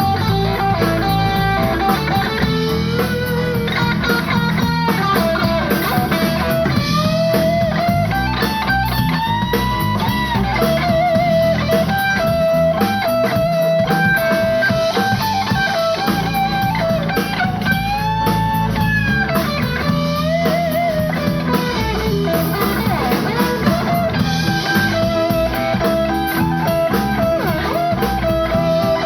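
Live blues band playing, with an electric guitar lead line full of string bends and vibrato on held notes over a steady bass and rhythm backing.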